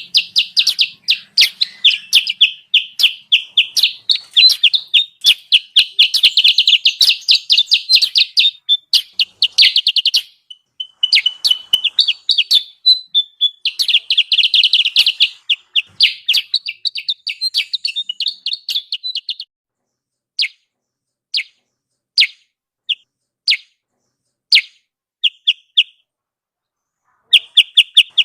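Bird-lure recording of kutilang sutra calls: rapid, high chirps in dense runs. About two-thirds of the way in they thin to scattered single chirps, then stop briefly before dense chirping starts again near the end.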